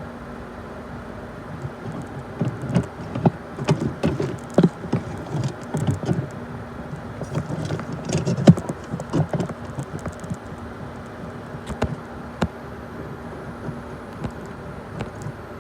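BNSF intermodal freight train passing: a steady low rumble with a faint hum, broken by many irregular clicks and clanks for most of the first ten seconds, thinning out after.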